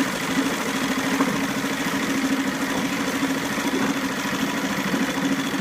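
SeaNovo 2.5 hp four-stroke outboard motor running steadily in forward gear, its propeller giving lots of thrust.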